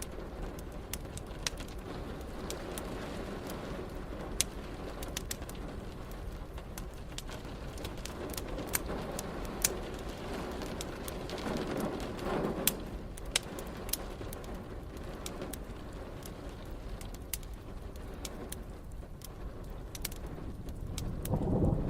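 Wood fire crackling with irregular sharp pops over a steady hiss of rain. A low rumble of thunder swells in near the end.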